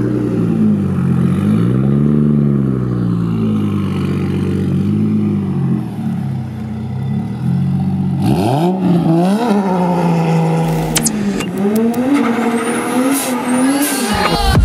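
Turbocharged 2JZ straight-six with cams and a straight-pipe exhaust, revving up and down, then climbing sharply about eight seconds in into a run of hard revs. Near the end the rear tyres spin in a burnout.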